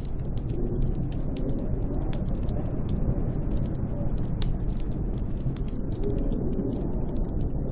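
Snowstorm wind as a steady low rumbling rush, with many small sharp crackles scattered throughout.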